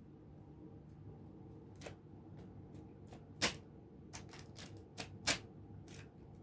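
Crinkly plastic bag crackling in short, sharp bursts as a kitten bats and pounces on it, with two louder crackles about three and a half and five seconds in.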